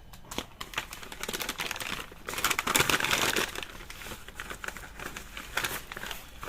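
Packaging crinkling and rustling as parts are unwrapped, with a thicker, louder stretch of crackling in the middle.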